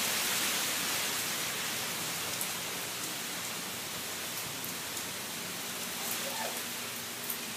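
Steady heavy rain from a tropical storm, easing slightly over a few seconds.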